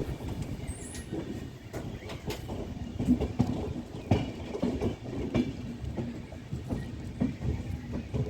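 A train running along the track: a steady low rumble with sharp wheel clicks over the rail joints every second or so.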